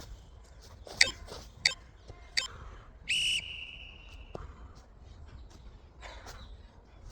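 Workout interval timer counting down with three short beeps about two-thirds of a second apart, then a longer beep of about a second. It marks the end of a 25-second work interval and the start of the rest.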